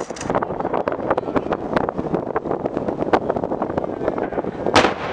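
Aerial fireworks shells bursting, heard from afar: a steady run of pops and crackles with a loud bang near the end.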